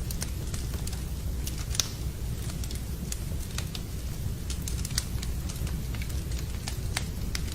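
Wood fire crackling in a fireplace, with irregular sharp pops a few times a second over a steady low rumble and the even hiss of rain.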